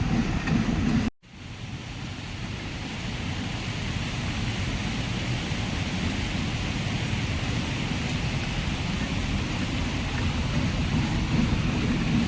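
Steady rush of storm wind, an even hiss across all pitches, which fades in after an abrupt cut about a second in.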